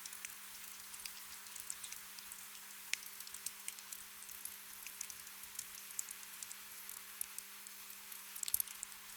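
Gentle rain ambience: a steady soft hiss with many separate drops pattering at irregular intervals, and a brief quick cluster of drops near the end.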